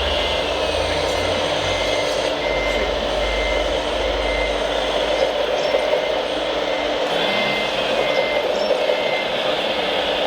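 Reversing beeper on a radio-controlled model truck's sound module: short, evenly spaced beeps about two a second, which stop for a couple of seconds midway and then start again. A steady background noise runs underneath.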